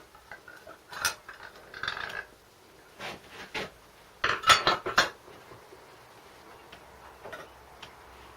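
Metal clinks and short rattles of tools and small parts as the air filter is worked off a Briggs & Stratton 3.5 hp mower engine, with the loudest cluster of clinks about four and a half to five seconds in.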